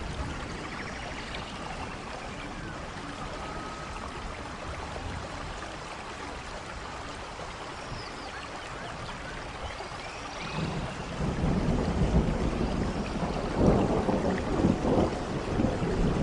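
Steady rain falling, with a low rumble of thunder building up about two thirds of the way through and staying loud to the end.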